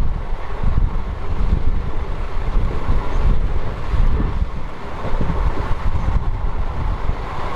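Running noise of a moving train heard at an open carriage window: a steady low rumble with wind buffeting the microphone.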